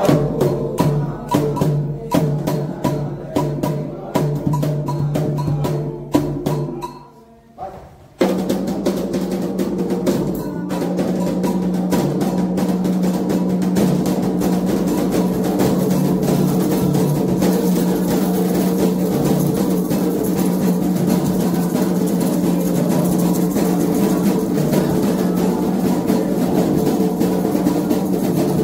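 Candomblé hand drums (atabaques) playing. Separate strokes sound for the first several seconds, drop away briefly, then a dense, continuous rhythm starts about eight seconds in.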